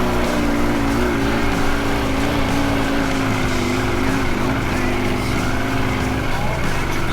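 Dnepr motorcycle's flat-twin engine running steadily under way, its pitch wavering a little.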